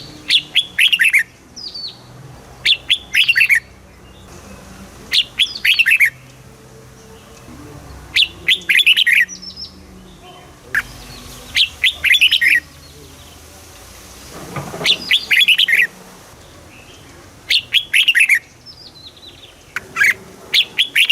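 Red-whiskered bulbul singing: short, clear phrases of quick falling notes, repeated every two to three seconds.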